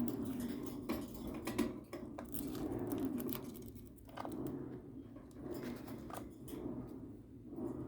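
Cockatiels crunching cornflakes in their beaks: irregular sharp cracks and snaps, several a second at times, with short pauses between bites.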